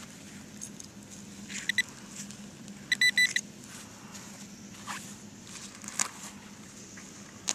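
Metal detector beeping on a target: a short double beep about one and a half seconds in, then a quick run of rapid beeps around three seconds. After that come a few sharp clicks from digging the target out of the ground.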